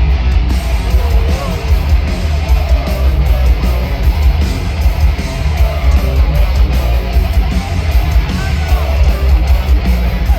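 Heavy metal band playing live: distorted electric guitar over bass and drums, with a heavy, booming low end.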